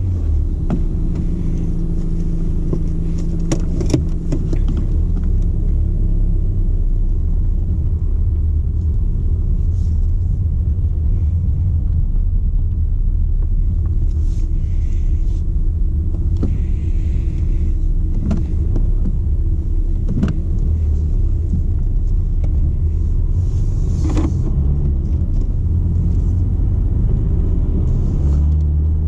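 BMW 120d's four-cylinder turbodiesel and tyres heard from inside the cabin while driving: a steady low rumble, with a few sharp clicks or knocks.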